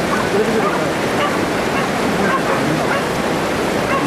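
Stray dogs barking and yipping in short scattered calls over a steady rushing noise.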